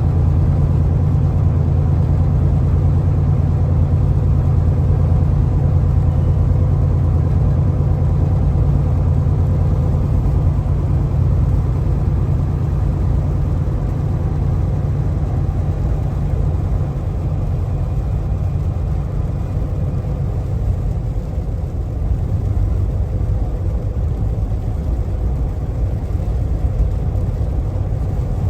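2024 Kenworth T680 semi truck cruising on the highway, heard from inside the cab: a steady low engine and road drone with a faint steady hum above it, easing slightly about two-thirds of the way through.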